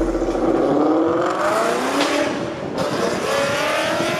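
A car engine and exhaust accelerating hard: the pitch rises for a couple of seconds, drops briefly as the car shifts gear, then climbs again.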